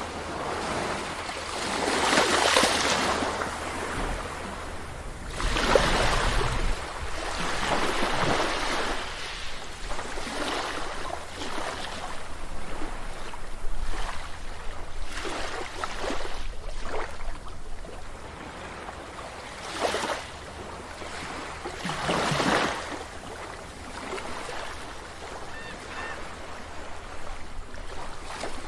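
Sea waves breaking and washing up a beach, surf surging and ebbing every few seconds, with the biggest breaks near the start and around twenty seconds in.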